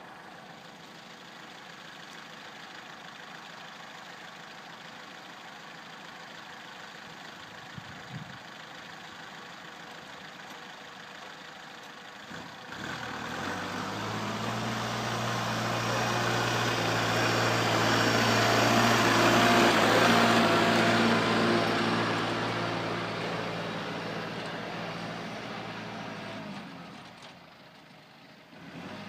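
Kubota 4701 tractor's diesel engine running at a steady pitch, growing louder as it comes close about halfway through and fading away again near the end. Before it comes in there is only a faint steady hiss.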